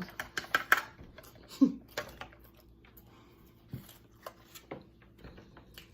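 Eating sounds: scattered clicks and taps of a utensil and a takeout food container while loaded fries are eaten, busier in the first two seconds, with a couple of short low hums.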